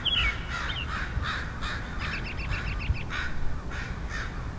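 Birds calling at a great blue heron nesting colony: a run of short, harsh, caw-like calls, several a second, with a brief high falling chirp at the very start.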